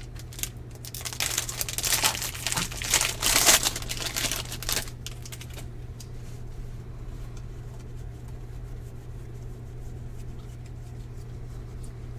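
A baseball card pack's wrapper being torn open and crinkled, a dense crackle lasting about four seconds that starts a second in and then stops.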